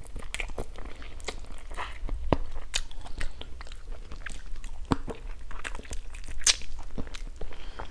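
Close-miked eating: a person chewing and biting into stir-fried frog legs, with irregular wet mouth clicks, smacks and small crunches.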